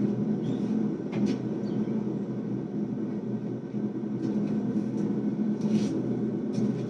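A forge running with a steady low rumble while the damascus billet heats back up to forge-welding heat, with a few faint clicks.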